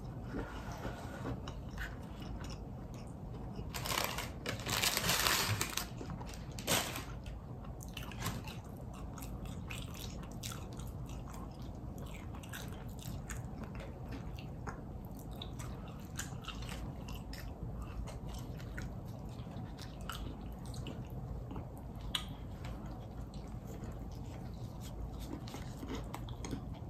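Close-up chewing and crunching of a Popeyes spicy fried chicken sandwich, many small wet clicks, with a louder, noisier burst about four seconds in that lasts a couple of seconds.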